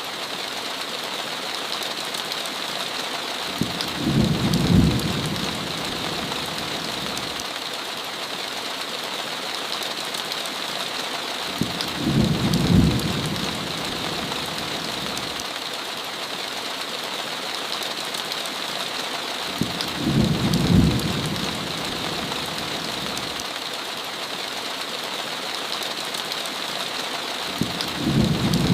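Steady heavy rain on a window, with a low rumble of thunder about every eight seconds, four times in all, each about a second long.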